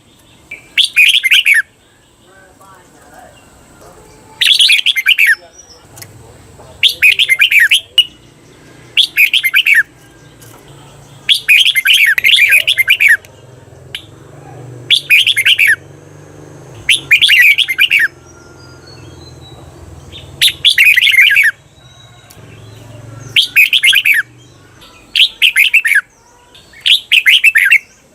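Red-whiskered bulbul singing short, loud, warbling song phrases, about a dozen of them roughly two seconds apart. This is the repeated 'double' song (เบิ้ล) used to train caged bulbuls.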